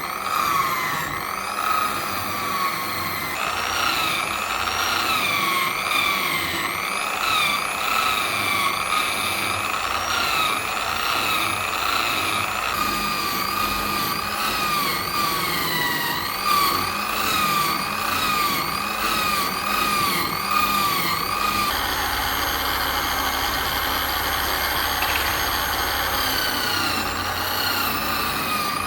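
An electric power tool running continuously, its motor whine dipping and recovering over and over as it is pressed into the work. About three quarters of the way through the whine steadies and a low hum joins it.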